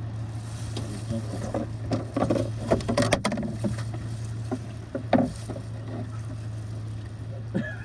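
Fishing boat's motor humming steadily at a low pitch, with scattered knocks and a brief quick rattle about three seconds in.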